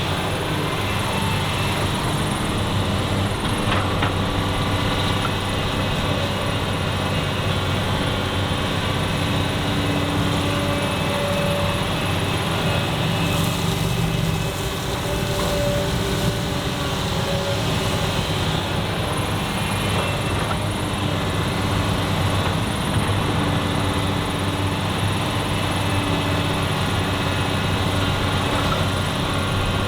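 Excavator engine running steadily as it works, a constant low drone with a few held tones that shift a little partway through.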